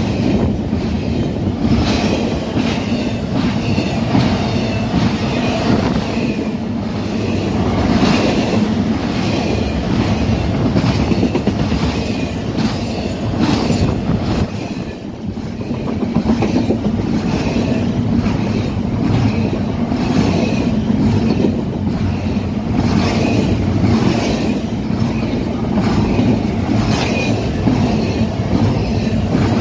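Norfolk Southern double-stack intermodal freight train rolling past close by: a steady rumble of steel wheels on rail, with a repeating clickety-clack as wheel sets cross rail joints.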